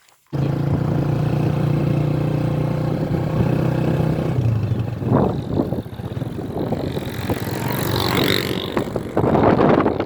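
A vehicle engine running with a steady hum, joined after about four and a half seconds by rough, gusting wind noise on the microphone.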